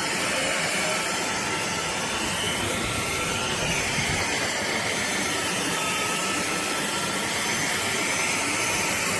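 drepre K7 Pro cordless stick vacuum running steadily, a constant motor whine and airflow rush with a slight wavering in pitch.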